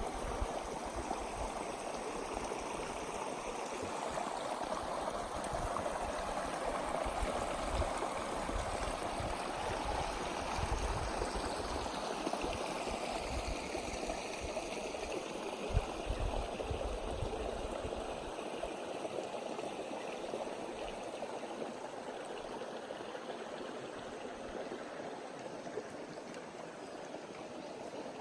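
Philieng waterfall: a steady rush of falling water, with an uneven low rumble beneath it that stops about two-thirds of the way through.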